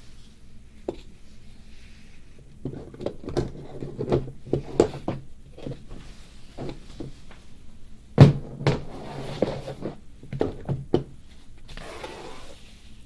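A series of irregular knocks and clicks, like objects being handled, over a low steady hum; the loudest knock comes a little past the middle.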